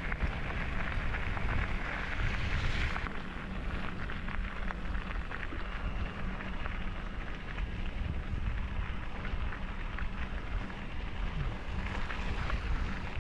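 Wind buffeting the microphone of a moving bicycle, with the crackling rolling noise of its tyres.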